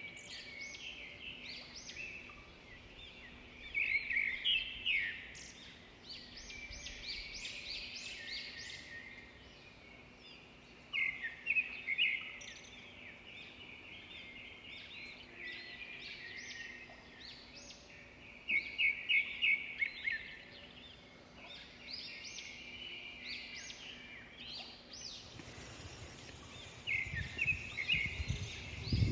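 Birds calling in the open: short high chirps repeated on and off, with quick runs of several notes every few seconds.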